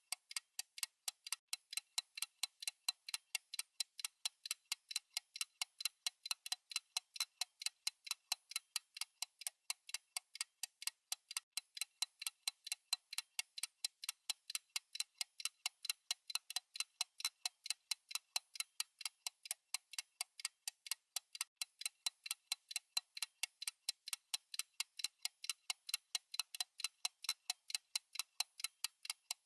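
Fast clock-style ticking from a countdown timer's tick sound effect: sharp, high, evenly spaced clicks, about four a second, with no low end.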